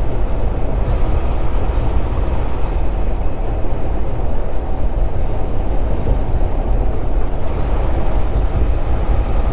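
Steady low rumble of a Volvo 780 semi truck heard from inside its cab while driving: engine and road noise.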